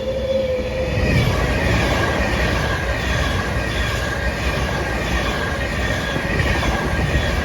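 A train running along the track past the platform. Its rolling noise swells about a second in and then holds steady.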